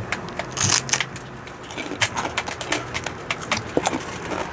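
Crispy pork chicharon (fried pork rind) crunching as it is bitten and chewed close to the microphone: a loud crackling bite under a second in, then a run of sharp crunches as it is chewed.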